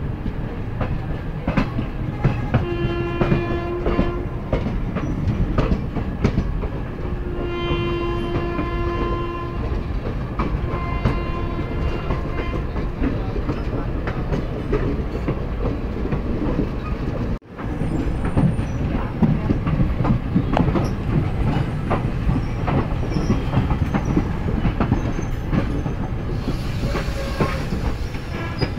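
Indian Railways passenger train rolling along, its wheels clacking over rail joints, with a train horn sounding three times in the first twelve seconds. The sound cuts out for an instant just past the middle.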